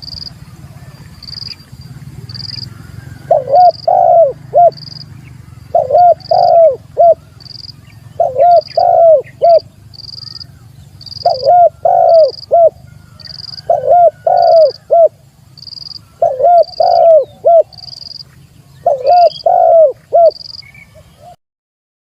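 Spotted dove (tekukur) cooing its territorial call to a rival: a phrase of three or four low, falling coos repeated about every two and a half seconds, beginning a few seconds in. A high, short chirp repeats about twice a second over a low hum, and everything cuts off abruptly near the end.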